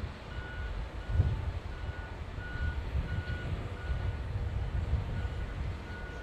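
Vehicle reversing alarm sounding a steady series of short, high, single-pitch beeps, about two a second, over a low continuous rumble.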